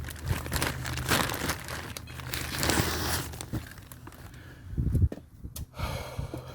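Packaging crinkling and tearing as a new brake rotor is unwrapped, in rustling bursts loudest in the first half, with a dull thump about five seconds in.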